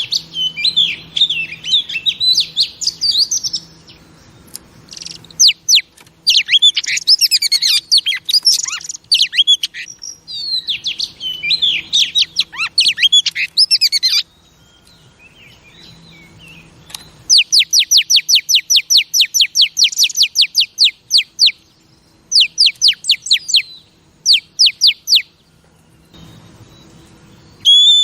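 Oriental magpie-robin singing varied, rich whistled phrases with short pauses. Around the middle it breaks into a long run of rapid, evenly repeated down-slurred notes, about seven a second, then a few shorter bursts of the same.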